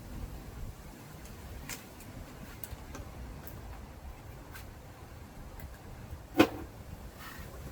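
Wire being worked through a manual slotted wire-stripping machine: scattered light clicks and handling noise, with one sharp snap about six and a half seconds in.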